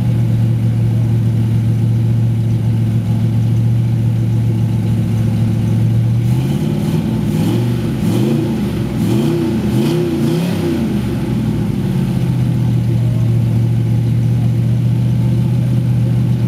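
Cadillac 500 cubic-inch V8, fitted with a Competition Cams "Thumper" camshaft and a Rochester Quadrajet, idling steadily. About six seconds in it is revved several times in quick throttle blips, rising and falling, and about five seconds later it settles back to idle.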